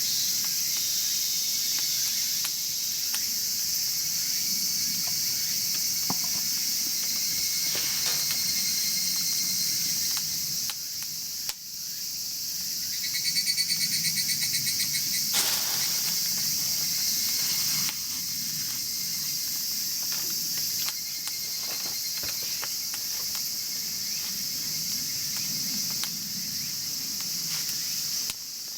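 Crickets and other insects trilling steadily in chorus, with a pulsed trill that comes and goes. A few faint crackles and pops come from a wood fire burning in a chiminea.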